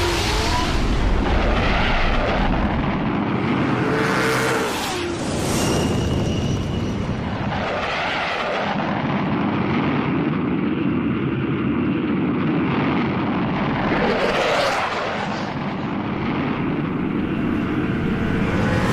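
Animated-series sound effects: a loud, steady engine-like roar with several whooshes sweeping past.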